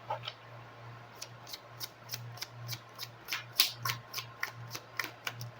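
A deck of oracle cards being shuffled by hand: a run of short, irregular card snaps, about three or four a second, over a faint low hum.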